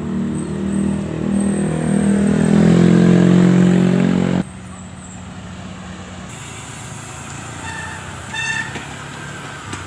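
A motor vehicle's engine running close by, rising in pitch as it speeds up, then cut off abruptly about four seconds in, leaving quieter road and wind noise with a short tone near the end.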